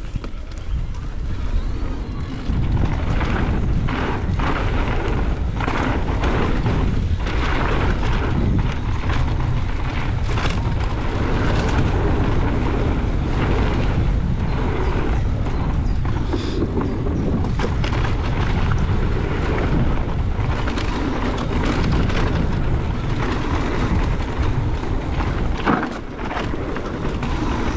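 Wind rushing over the camera microphone and tyres running on a dirt trail as a mountain e-bike descends fast. Frequent knocks and rattles come from the bike over bumps.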